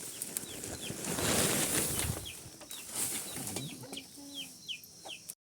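Chickens: a string of short, high, falling peeps, with a few lower clucks near the end and a burst of rustling, flapping noise in the first half. The sound cuts off suddenly just before the end.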